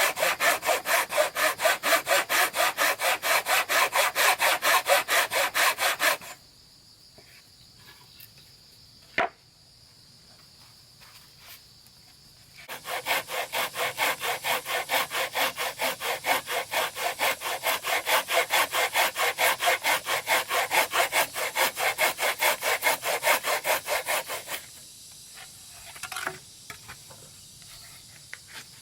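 Hand saw cutting wood in quick, even back-and-forth strokes, about three a second. The sawing stops for several seconds, broken by a single sharp knock, then starts again and stops near the end.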